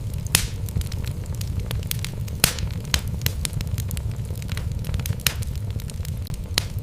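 Wood logs burning in a fireplace: irregular sharp pops and crackles over a steady low rumble of the fire.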